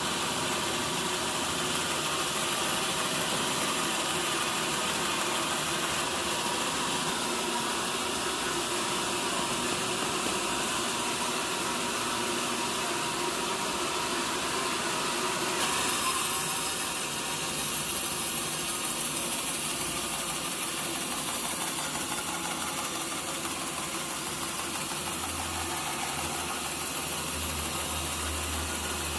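Sawmill saw running through mahogany, a steady machine noise that changes character about halfway through, turning brighter and hissier.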